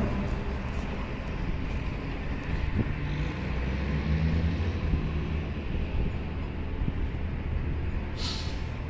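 A garbage truck's diesel engine running steadily at a low rumble, with a short burst of air hiss about eight seconds in.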